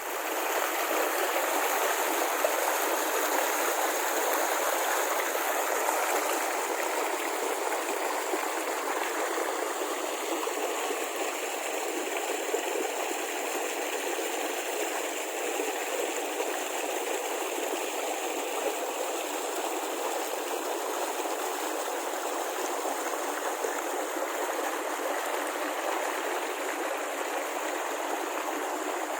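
Waterfall: flowing water making a steady, even rush with no deep rumble.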